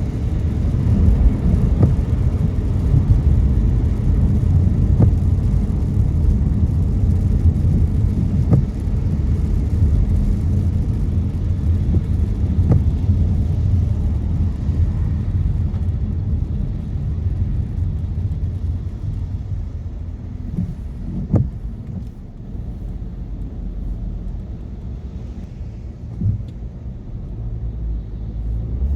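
Car driving on a wet road: a steady low rumble of engine and tyres under a hiss of spray. The hiss thins out and the noise grows quieter in the second half, and a few sharp taps sound along the way.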